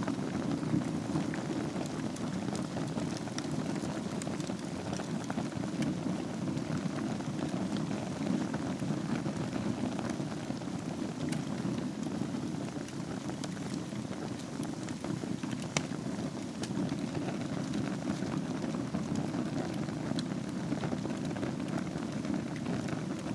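Wood fire burning in a fireplace: a steady low rush of flame with scattered crackles and pops, one sharper pop about sixteen seconds in.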